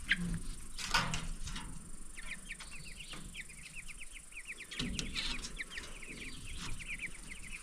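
Young Cornish cross meat chicks peeping in quick runs of short, high chirps, with a few light knocks in between.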